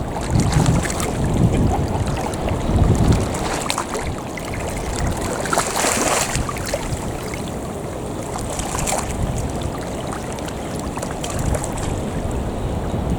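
Wind buffeting the microphone in gusts, strongest in the first few seconds, over a steady rush of waves.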